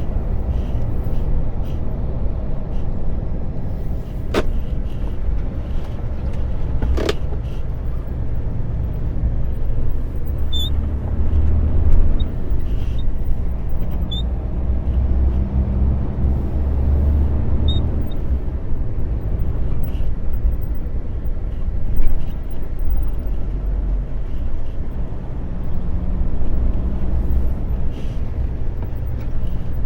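Truck engine and road noise heard from inside the cab while driving: a steady low drone that swells for several seconds around the middle, with a couple of sharp clicks a few seconds in.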